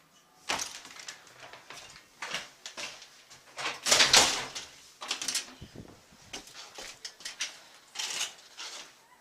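Snow being shoveled: irregular scrapes and scoops of a shovel in snow, the loudest and longest stroke about four seconds in.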